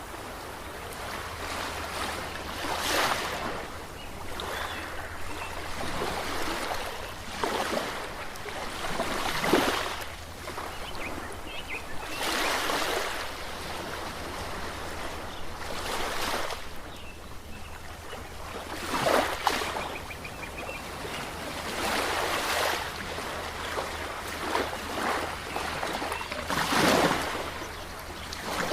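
Ocean waves washing in and breaking, a rushing surge that swells and falls back every three to four seconds.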